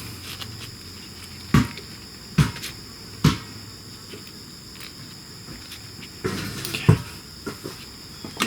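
Hand work on motorcycle shift-lever parts: four separate sharp knocks and clinks of metal parts and tools, a second or so apart, with a short scraping rustle near the end. A steady high-pitched tone runs underneath.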